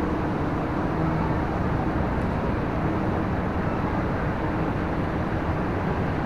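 Steady rumble of a running engine, with a faint low hum that comes and goes.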